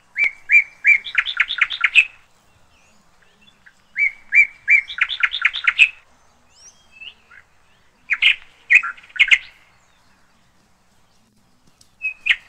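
A songbird singing the same short phrase about every four seconds, three times. Each phrase is a few spaced notes followed by a quicker run of notes.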